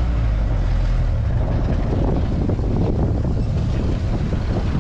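1952 Willys M38A1 Jeep's F-head four-cylinder engine running with a steady low drone, with wind buffeting the microphone.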